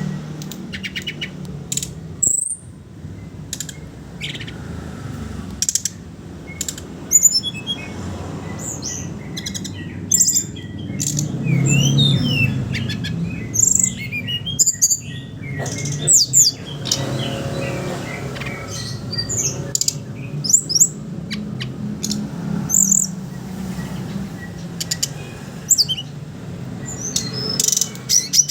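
An SRDC songbird singing: fast chattering twitters mixed with fuller, clearer song phrases. Short chirps and trills come thick and fast throughout, over a low background hum.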